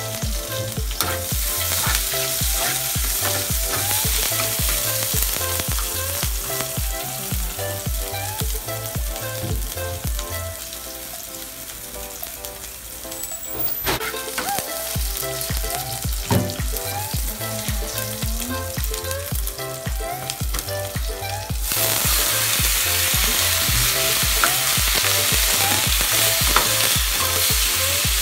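Sliced red onion and garlic sizzling in hot oil in a frying pan, stirred with a spatula. About 22 seconds in, the sizzle turns suddenly louder and brighter as raw shrimp and other seafood go into the pan.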